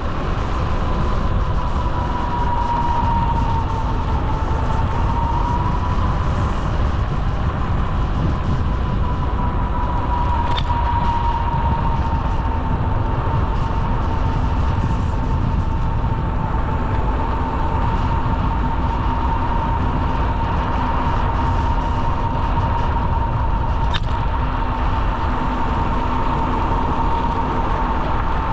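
Steady wind rumble on the microphone of a moving bicycle ride, with a steady high whine that wavers slightly in pitch throughout.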